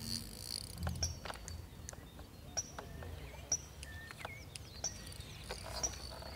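Birds chirping with short, scattered high calls and a few whistled notes, over a low outdoor rumble, with several sharp clicks among them.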